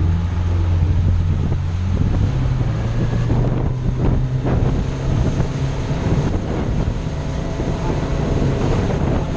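Motorboat engine running steadily under way, its hum shifting in pitch about two seconds in, with wind buffeting the microphone.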